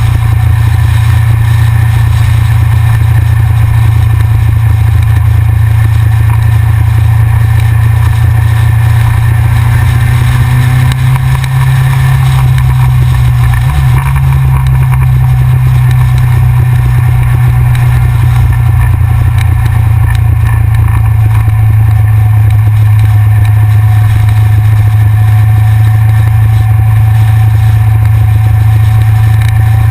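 Yamaha XJR air-cooled inline-four motorcycle being ridden at a steady cruise, the engine running evenly under heavy wind rush on a front-mounted action camera, with a brief dip in level about a third of the way through.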